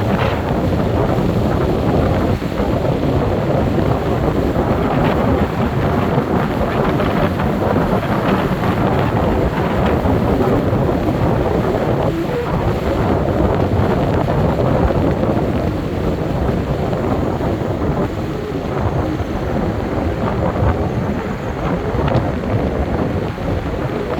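Steady road and wind noise of a car on the move, with wind buffeting the microphone.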